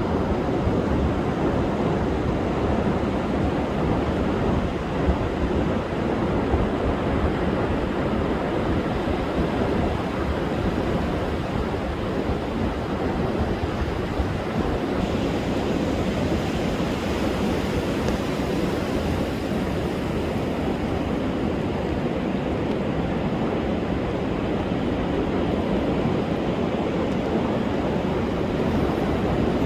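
Heavy storm surf crashing and washing continuously onto a sandy beach during a high-seas advisory, a steady dense roar. Wind is buffeting the microphone.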